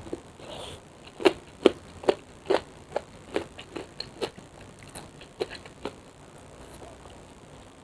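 Close-up chewing of something crunchy: a run of crisp crunches about two to three a second, the loudest first, dying out after about six seconds.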